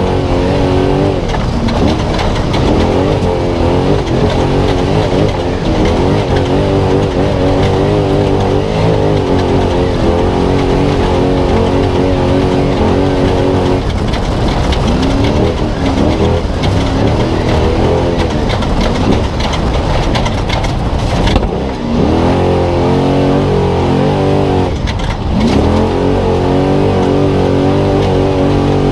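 Spec Trophy Truck engine running hard under race load, its revs climbing and dropping again and again through gear changes and throttle lifts, with brief lifts about 14, 21 and 25 seconds in.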